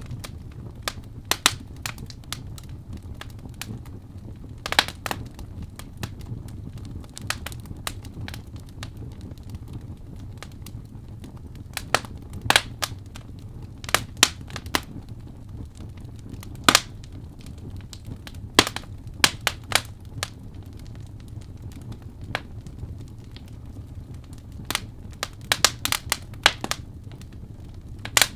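Wood fire crackling: irregular sharp pops and snaps, sometimes in quick clusters, over a steady low rumble.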